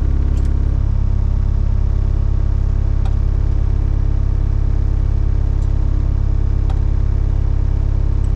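Excavator's diesel engine running steadily at idle, a loud, even low rumble whose tone changes slightly about a second in.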